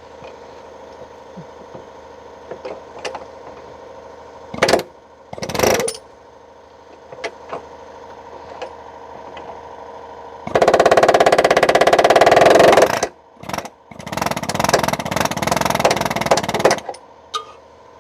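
A power tool run in two bursts of a few seconds each on a rusty exhaust hanger, a fast rattling buzz, after a few sharp metal knocks.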